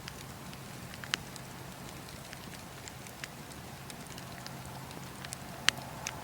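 Campfire crackling: burning wood giving scattered sharp pops and snaps over a steady low bed of noise, the loudest pop near the end.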